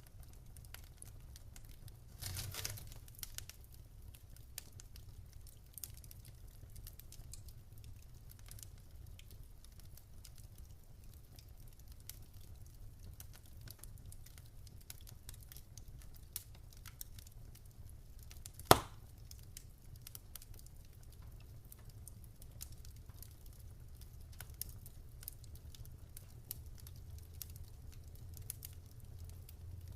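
Wood fire crackling in a fireplace: scattered small pops and snaps over a low steady rumble, with a burst of crackles about two seconds in and one sharp, loud pop just past the middle.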